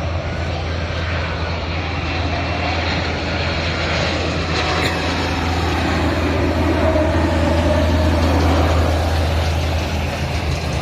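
Airliner engine noise: a steady noise that swells a little about eight seconds in, then eases.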